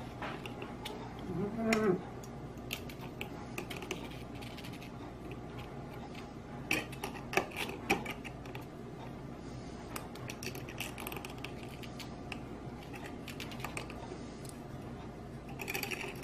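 Thin wire being wound by hand onto a slotted spiderweb coil form, giving scattered small clicks and light rustling as it is threaded through the slots. A short hummed voice sound comes about two seconds in.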